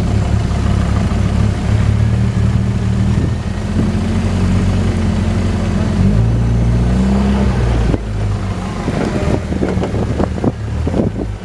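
A car engine running close by at low revs, with a deep, steady note that shifts in pitch about six seconds in and falls away about eight seconds in. A few short knocks follow near the end.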